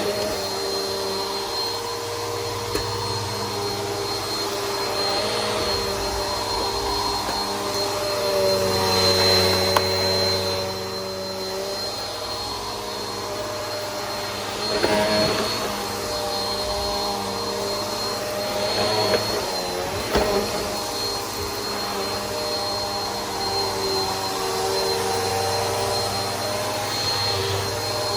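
Bissell PowerForce Helix upright vacuum cleaner running steadily, a high motor whine over a lower hum that shifts a little in pitch. It gets louder for a couple of seconds about a third of the way in, with a few brief clicks and knocks along the way.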